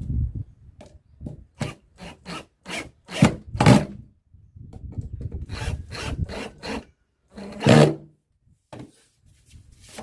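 Hand work on the wooden table of a homemade bench grinder during assembly: a string of irregular short scraping and knocking strokes, loudest about a third of the way in and again near the end.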